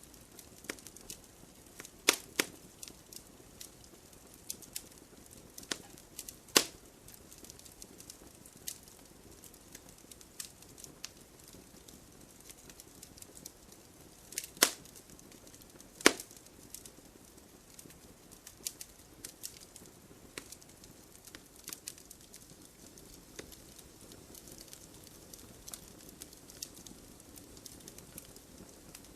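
Wood fire in an open fireplace crackling: irregular sharp snaps and clicks over a faint steady hiss, with a few louder pops scattered through.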